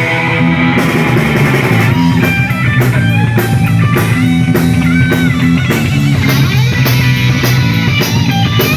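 Rock band playing a blues instrumental passage: electric guitar lead with bending notes over bass and a steady drum beat.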